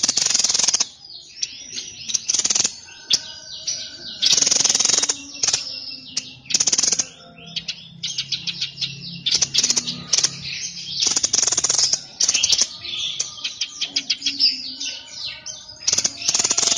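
Songbird of the kind Indonesian bird keepers call 'sniper', singing hard: loud harsh, buzzy phrases of about half a second to a second, repeated every couple of seconds, alternating with rapid clicking trills and short high chirps.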